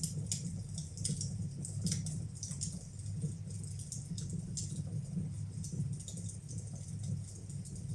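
Wood fire burning in a fireplace: irregular sharp crackles and pops over a steady low roar of the flames.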